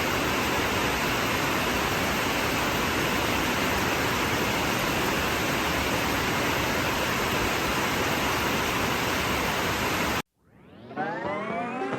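Steady, even rushing noise with no pattern or break, cutting off suddenly about ten seconds in; music fades in right after.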